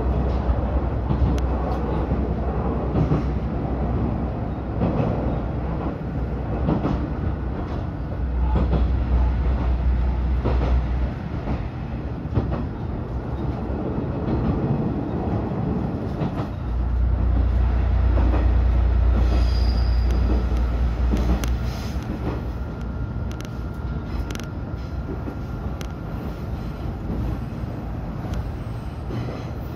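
Diesel railcar heard from inside while running: a steady low rumble of engine and wheels on rail with short clicks of rail joints, swelling louder twice, and a brief high squeal near the middle.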